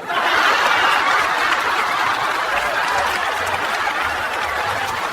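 Crowd laughing and clapping, a laugh-track effect after a punchline, cutting in abruptly and holding at a steady level.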